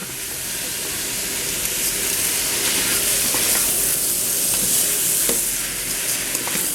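Chicken, spices and rice sizzling in a hot pot while being stirred: a steady frying hiss, with a few light clicks.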